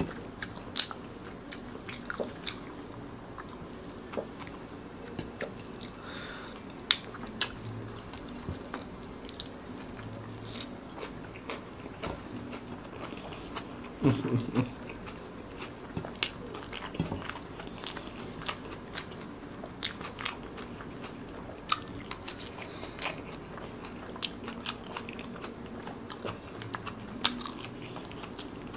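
Close-miked chewing and crunching of crispy fried food eaten with rice, with short sharp crunches scattered throughout and a louder burst of chewing about halfway.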